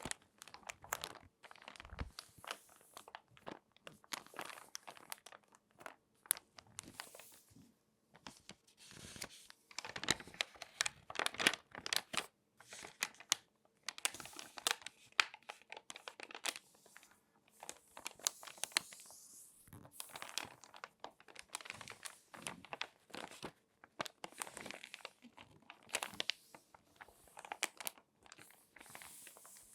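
Glossy magazine pages being folded and creased by hand, with irregular runs of close-up crinkling and crackling and brief pauses between folds.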